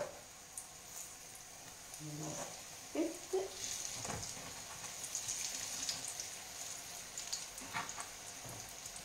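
Strips of frappe dough (Italian carnival pastry) frying in hot oil in a frying pan: a steady sizzle with scattered crackles, and a few light knocks.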